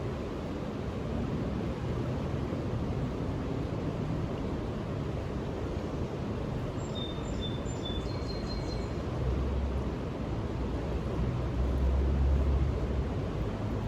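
Steady outdoor background noise with a low rumble that swells in the second half, and a short run of high, thin chirps about halfway through.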